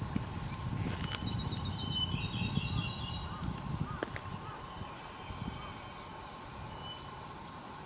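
Wild birds singing: a quick trill of high notes about a second in, then a fast run of lower repeated notes, with a few shorter calls near the end. A low rumble underneath fades over the first half.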